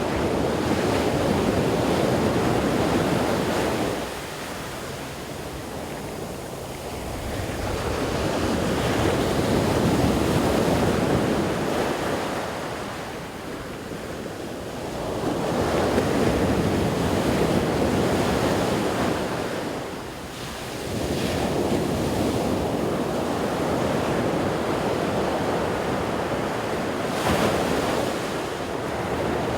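Ocean surf rolling onto the beach, swelling and ebbing every several seconds as waves break and wash back, with wind buffeting the microphone.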